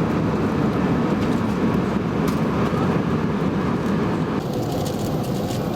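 Steady rushing cabin noise of an Airbus A320 in cruise, heard from inside the passenger cabin, mostly low and without a pitched whine.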